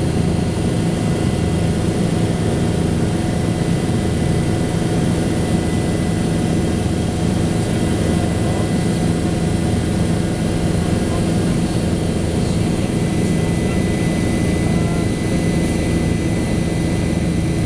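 Helicopter cabin noise in flight: a steady, loud drone of engine and rotor with several steady tones layered over it, unchanging.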